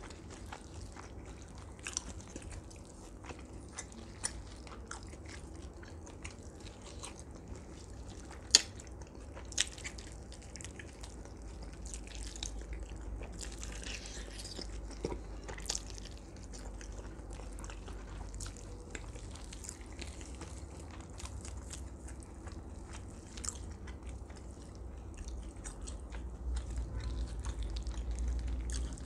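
Close-miked biting and chewing of roasted duck, with a sharp crunch now and then; the loudest crunch comes about eight and a half seconds in.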